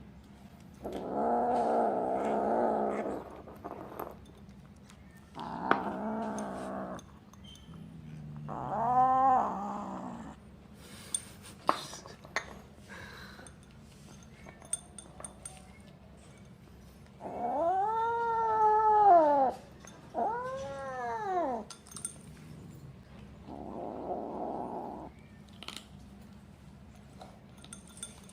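Kitten growling and yowling while it eats, the noises of a cat guarding its food. Six drawn-out calls: harsh growls near the start, in the first quarter and near the end, with three rising-and-falling yowls between them. A few sharp clicks come in the quiet middle stretch.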